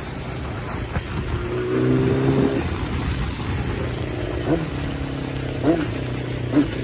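Sport motorcycle engine running at a steady cruise under wind rush on the microphone, with a few short rises in revs in the second half.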